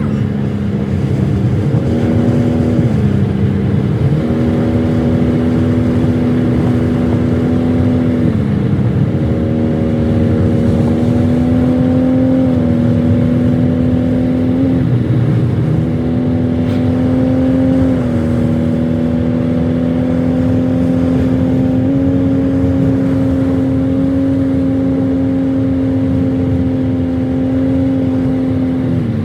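Toyota Supra's engine pulling at steady road speed, its pitch dropping suddenly a few times and then climbing slightly as the transmission shifts gears.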